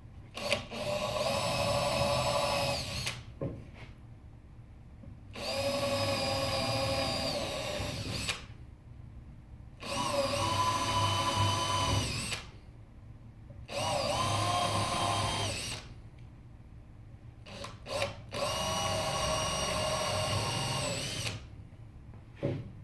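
Power drill running in five bursts of two to three seconds each, its motor whine steady and dropping in pitch as each burst ends, with short clicks in the pauses between.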